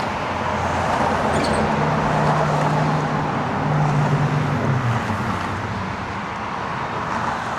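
Road traffic passing: a vehicle's engine hum and tyre noise swelling over a few seconds and then fading.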